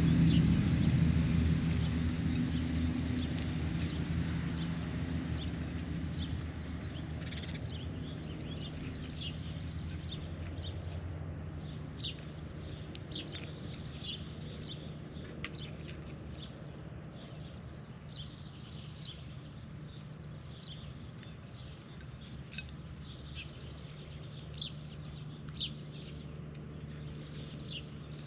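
A passing vehicle's engine, loudest at the start and fading away over the first several seconds, over birds chirping in many short calls.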